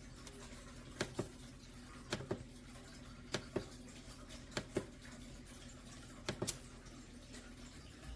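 Five pairs of light clicks, roughly a second apart, like the control buttons of a Cuisinart SS-10 single-serve coffee maker being pressed and released, over a low steady hum.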